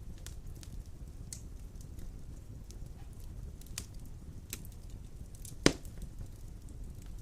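Large logs burning in a fireplace: a low steady rumble of flame with scattered small crackles, and one loud sharp pop a little before the end.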